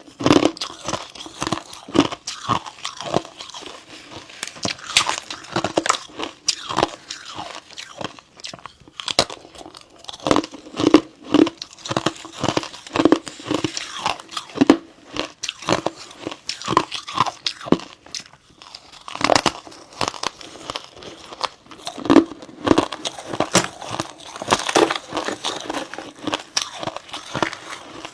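Freezer frost chips being bitten and chewed close to the microphone: many irregular, crisp crunches with short pauses between bites.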